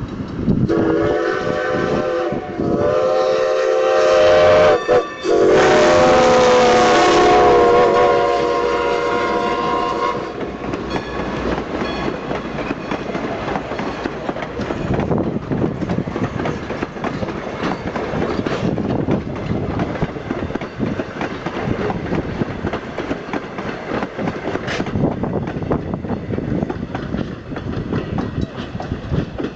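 Steam locomotive whistle on Strasburg 2-10-0 No. 90, blown three times with the last blast longest, about five seconds. Then the train rolls past with a steady rumble and clickety-clack of the wheels on the rail joints.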